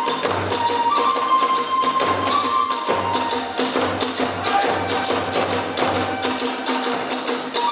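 Kagura hayashi music: a fast, driving beat on drums and small hand cymbals under a bamboo flute holding long notes.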